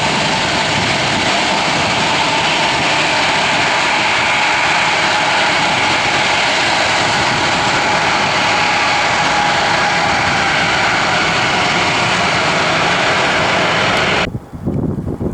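Airliner engines heard close by: loud, steady engine noise with a faint tone sliding slowly lower. It cuts off abruptly near the end, leaving uneven wind noise on the microphone.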